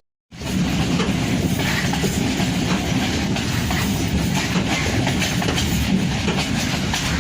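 Passenger train running along the track, a steady rumble with its wheels clicking over the rail joints. The sound cuts out for a moment right at the start, then resumes.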